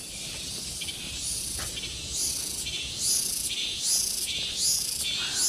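Forest insects calling with a high, shrill buzz that swells and fades in a regular pulse, a little under once a second, growing louder from about two seconds in.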